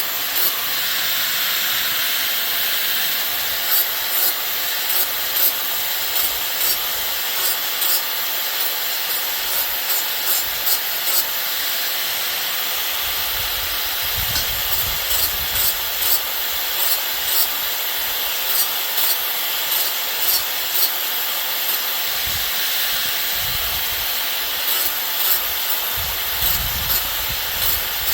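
Wood being worked by hand with rhythmic back-and-forth strokes, coming in runs of about two strokes a second with short pauses between, over a steady hiss.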